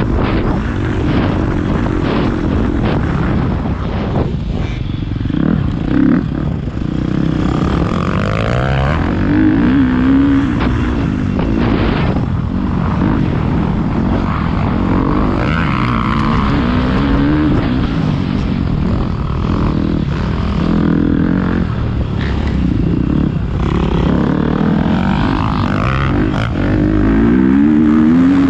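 Motocross bike engine revving up and down as the bike is ridden around a dirt track, its pitch rising and falling repeatedly over a constant heavy noise.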